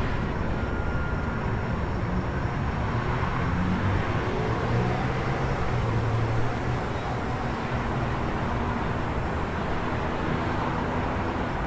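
Steady city traffic noise, a low even rumble. A vehicle's engine hum swells through the middle and then fades back into it.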